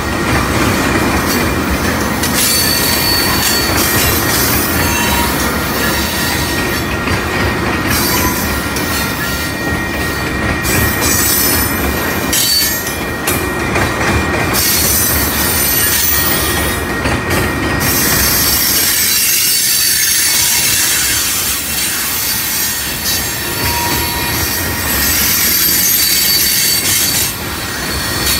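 Freight train of loaded tank cars rolling past: steel wheels rumbling and clattering on the rail, with thin, high-pitched wheel squeal coming and going. The low rumble eases for a few seconds about two-thirds of the way through, then returns.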